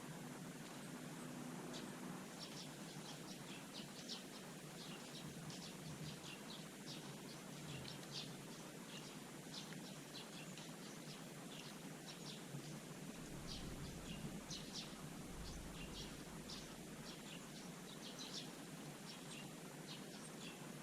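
Small birds chirping faintly: many short, high chirps, a few each second, over a steady background hiss.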